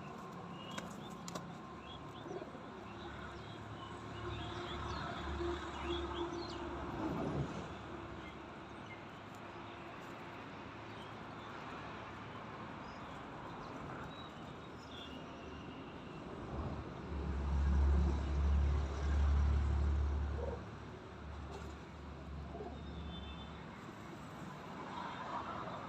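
Pigeons cooing and small birds chirping while they feed. A low rumble swells for a few seconds about two-thirds of the way through.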